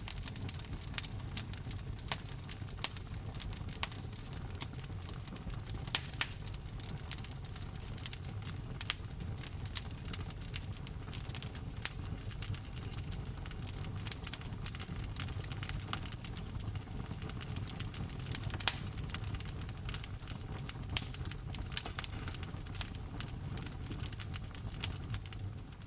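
Wood fire burning in a fireplace: a steady low rumble of the flames under constant fine crackling, with a few louder pops.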